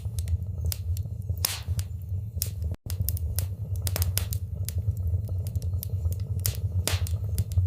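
Wood fire burning in a fireplace: irregular sharp crackles and pops over a steady low rumble of the flames. The sound cuts out for a split second a little under three seconds in.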